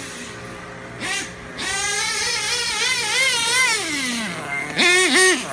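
Dynamite .28 nitro engine of an RC truggy running on the throttle, its high-pitched note rising and falling. Its pitch drops away about four seconds in, then a few sharp, loud revs near the end.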